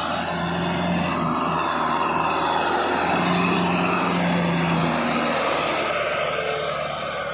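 Kubota tractor engine running steadily under load while plowing in wet mud, with a dense rushing noise over its low drone.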